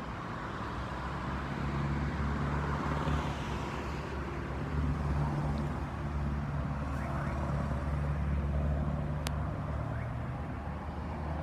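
Street traffic: a motor vehicle's engine running steadily with a low drone, over general road noise, with one short click about nine seconds in.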